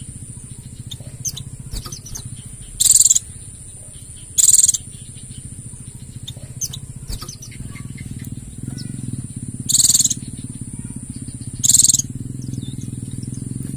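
White-eye (pleci) birdsong: faint scattered twittering broken by four short, loud, high-pitched trills. A steady high whine and a low hum run underneath, the hum growing louder past the middle.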